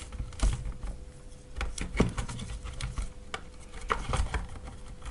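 Scattered small clicks, taps and soft rubbing of hands handling a rebuilt e-bike battery pack and its plastic case parts while test-fitting them together.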